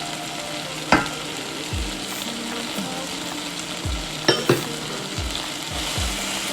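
Chicken, chorizo and tomato paste sizzling steadily in a hot pan as they are stirred, with sharp knocks of the utensil against the pan about a second in and twice more just past the middle.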